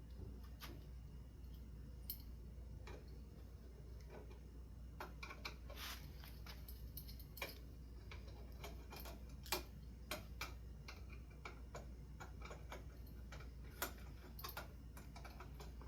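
Irregular light clicks and clinks of small metal ceiling-fan hardware and screws being handled, coming thicker from about five seconds in, over a low steady hum.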